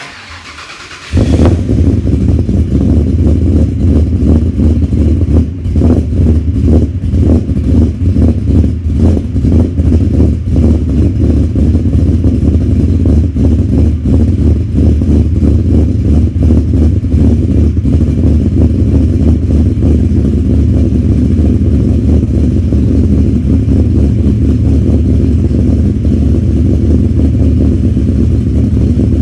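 Cold start of a 2008 Ford FG XR8's 5.4-litre Boss V8 with big cams and a loud exhaust. The starter cranks for about a second before the engine catches, and then it idles loudly. The idle is choppy and uneven at first and grows steadier in the second half as the engine warms.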